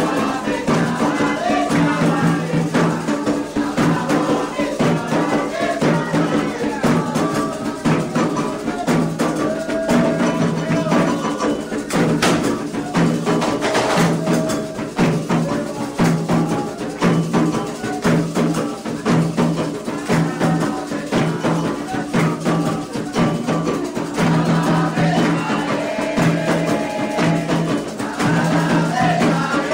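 Candomblé ritual music: atabaque hand drums played in a steady, driving rhythm with sharp, clicking percussion strokes over them.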